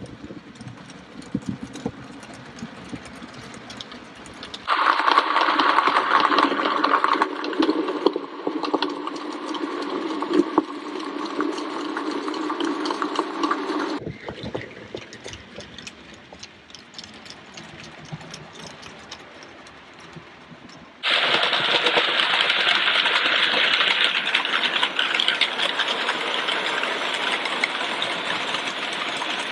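00 gauge model locomotives running on model railway track, a steady mechanical running sound in several cut-together sections that change abruptly about five, fourteen and twenty-one seconds in.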